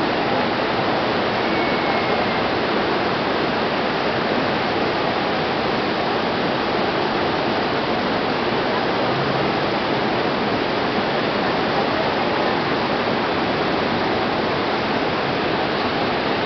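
The Iguazu Falls roaring, a steady, even rushing of heavy water that does not change in level.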